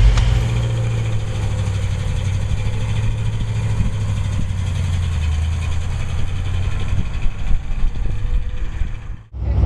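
1968 Pontiac Firebird's rebuilt Pontiac 350 V8 idling steadily. The sound cuts off abruptly near the end.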